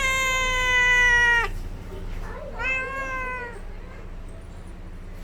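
A cat meowing twice: a long, slightly falling meow, then a shorter one that rises and falls about two and a half seconds in.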